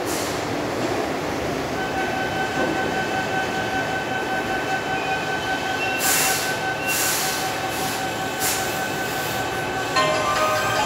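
Keihan 8000-series electric train pulling into an underground station and braking to a stop: a steady rumble with a steady high squeal from the brakes and wheels setting in about two seconds in, and short hisses of air around the middle. Near the end, a chime or melody begins.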